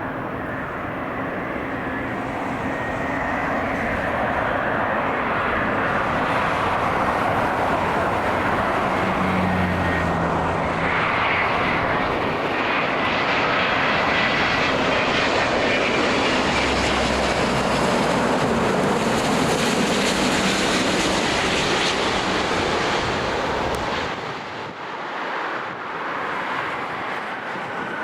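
Twin-engine jet airliner passing low on final approach, its engine noise building over the first few seconds, holding loud, then dropping off sharply near the end.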